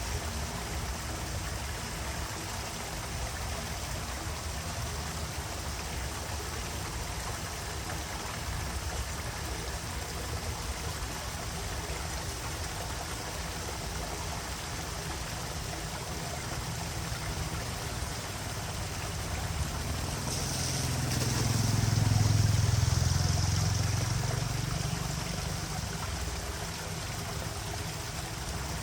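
Water running steadily, with a vehicle passing about two-thirds of the way through, its sound swelling and fading over several seconds.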